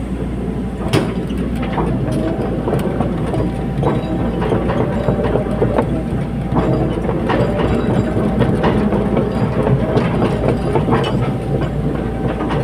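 Caterpillar 320D hydraulic excavator running steadily at work, with repeated sharp metal clanks and knocks over the engine drone, the loudest about a second in.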